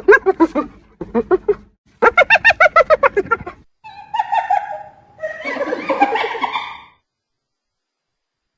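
Spotted hyena giggling: fast runs of short, high, yelping notes in several bursts, followed by harsher, rasping squeals.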